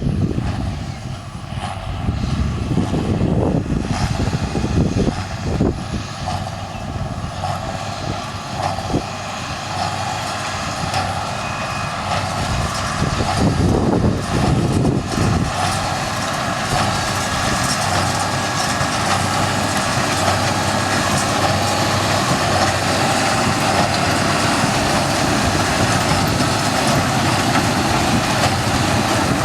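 A large vehicle running, a loud steady mechanical noise with several held tones; irregular low knocks come through it in the first half, after which it runs evenly.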